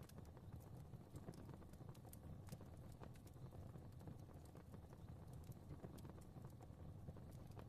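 Fireplace fire crackling softly: irregular sharp pops and ticks over a low, steady rumble.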